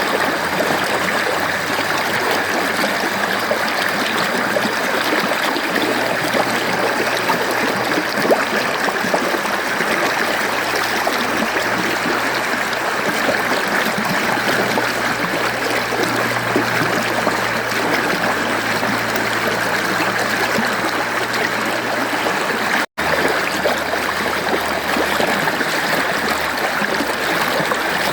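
Mountain stream flowing steadily, an even rush of water with trickling. The sound cuts out for an instant once, late on, where the recording is spliced.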